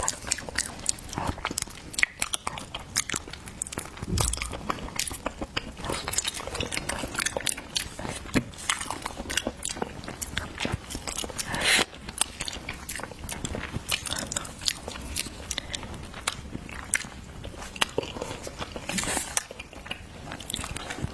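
Close-miked eating of seafood: wet chewing and biting with frequent sharp crunches and clicks.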